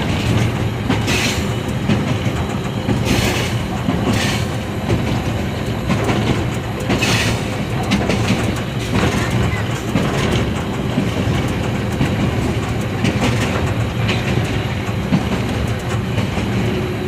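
Running noise inside the cab of a Pakistan Railways ZCU-30 diesel locomotive on the move: a steady loud engine drone and wheel rumble, with clickety-clack from the rails and a few short, sharper bursts of noise from the running gear.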